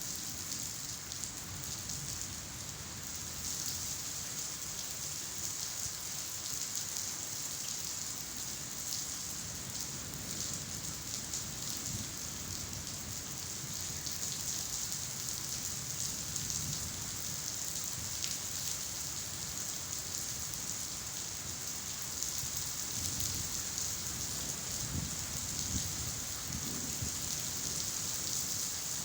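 Steady rainfall: a dense, even patter of drops hitting surfaces, with no let-up.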